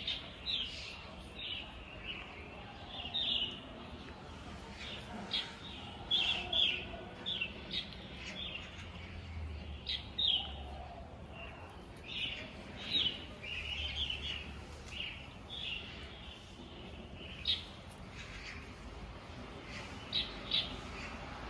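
Small birds chirping: many short, high chirps come in quick irregular clusters throughout.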